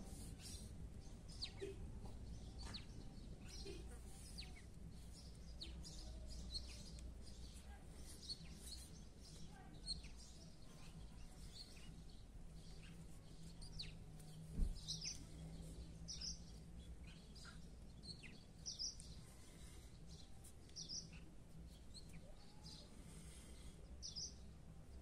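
Small birds chirping faintly with short, scattered calls over a steady low hum, and a single sharp knock a little past the middle.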